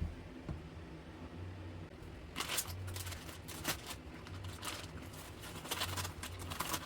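Irregular rustling and crinkling handling noise starting about two seconds in, over a low steady hum.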